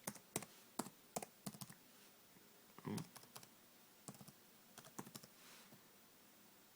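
Keys tapping on a Sony Vaio laptop keyboard as a username is typed in, faint, irregular clicks in short runs with pauses between them.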